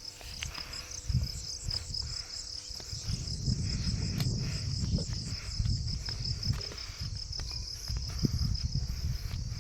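Insects, crickets by their sound, chirping in a steady, fast-pulsing high trill, over a low uneven rumble.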